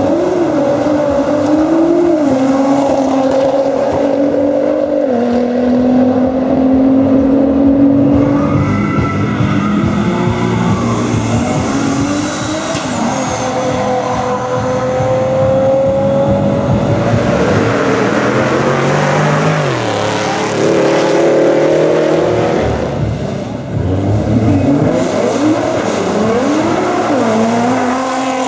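Drag racing cars' engines revving and accelerating, their pitch climbing and dropping several times, with a high rising whistle about twelve seconds in and a stretch of loud rushing noise about two-thirds of the way through.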